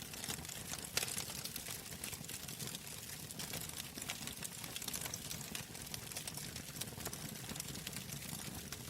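Wood fire crackling in a fireplace: irregular sharp pops and snaps over a low, steady rumble of flames, with one louder pop about a second in.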